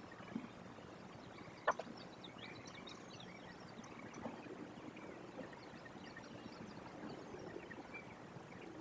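Faint bird chirps and short whistled slides, many of them in quick succession, with one sharp knock a little under two seconds in.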